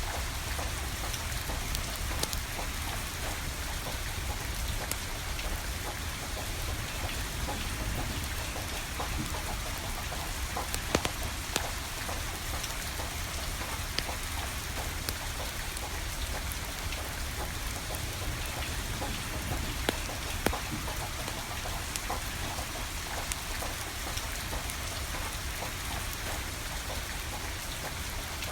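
Steady rain falling, with a wood fire crackling and a few sharp pops, the loudest about eleven and twenty seconds in.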